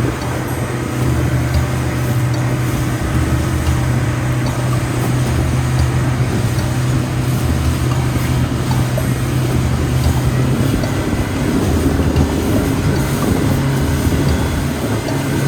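Motorboat engine running steadily under way: a constant low hum beneath a heavy rush of water and wind noise.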